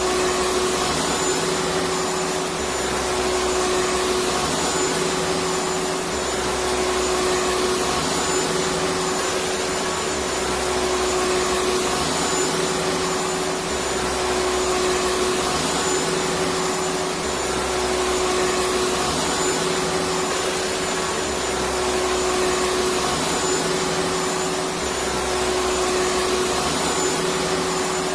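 Electric vacuum cleaner running continuously with a steady rushing whine and a strong hum. A low throb repeats about every two seconds.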